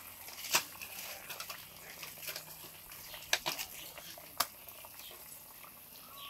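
Paella pan cooking over a wood fire: a soft steady hiss with a few scattered sharp clicks and pops.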